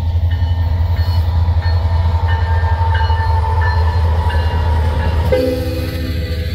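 Diesel locomotives of a Canadian National freight train, an SD70M-2 and a C44-9W, running with a heavy, steady low rumble and a steady whine above it. About five seconds in, a locomotive air horn sounds a held multi-note chord.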